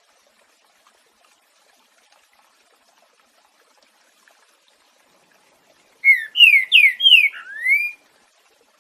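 Green-winged saltator (trinca-ferro) singing one loud phrase of its boiadeiro-style song about six seconds in: four or five clear whistled notes, mostly falling slurs, ending on a rising note. Before it, only a faint trickle of running water.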